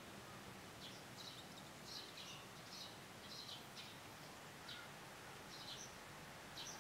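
Faint bird chirps, short high calls repeating irregularly about once or twice a second, over a low steady outdoor hiss.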